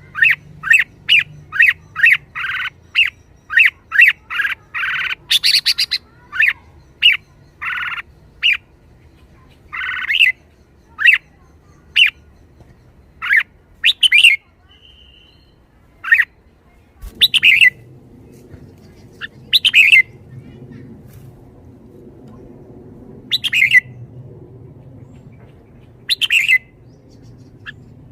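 Red-whiskered bulbul calling: a quick run of short chirps and squawks about twice a second for the first several seconds, then single calls every two to three seconds.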